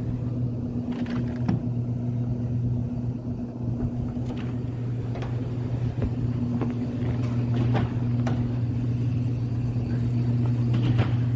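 Case IH MX120 tractor's diesel engine running at a steady pitch, with a few faint clicks and knocks over it.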